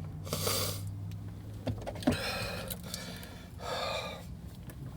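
A man breathing hard through his mouth in three heavy breaths, his mouth burning from extremely hot chili chicken, over a low steady hum.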